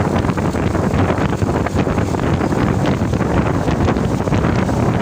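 Loaded truck driving, its engine running under heavy wind noise buffeting the microphone.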